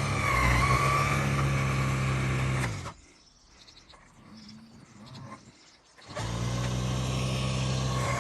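SnowJoe 100-volt 24-inch two-stage cordless snowblower running steadily with a motor whine and hum. About three seconds in it winds down and stops, and about three seconds later it starts up again quickly and runs on.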